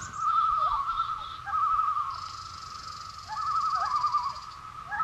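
Wild bird calls: several wavering, warbling calls at one pitch, repeated about every second or two over a steady held note, with a high thin sound partway through.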